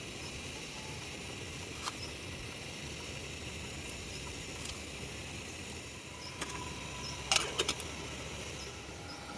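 A few light clicks and clinks of small hard objects being handled over a steady background hiss, with a quick cluster of sharper, louder knocks and a brief ringing tone about seven seconds in.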